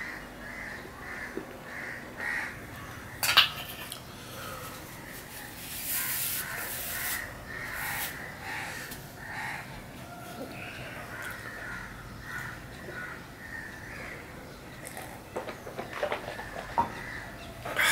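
A bird's harsh call repeating over and over in the background, about every half second to a second. Close by are eating noises: a sharp click about three seconds in, a rustle partway through as a tissue wipes the mouth, and small clicks near the end as fingers wipe an empty steel plate.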